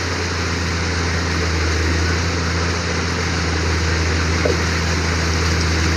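Backhoe's engine running steadily: an even low hum under a constant hiss.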